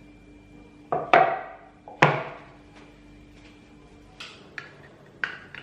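Kitchenware being handled: two loud clanks that ring briefly, about one and two seconds in, then lighter clinks near the end. A faint steady hum underneath stops about four seconds in.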